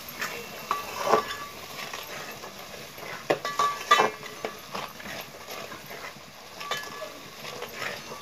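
Masala frying in oil in a steel pot, a steady sizzle broken by a few short, sharp knocks with a brief ring, about a second in, around four seconds in and near seven seconds.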